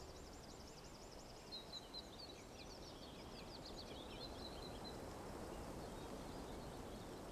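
Quiet forest ambience: a steady soft hiss, with small birds chirping and trilling in quick runs of high notes over the first few seconds, thinning out toward the middle.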